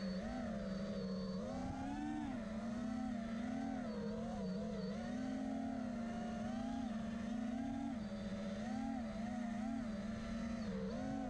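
FPV quadcopter's motors and propellers whining, the pitch rising and falling constantly with the throttle.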